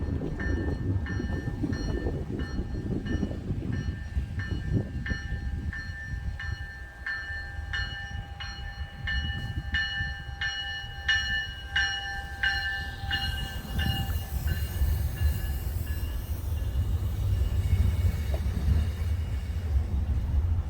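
Train passing over a low rumble. Wheels click rhythmically over rail joints, quickening in the middle. High steady tones sound alongside and fade out about three-quarters of the way through.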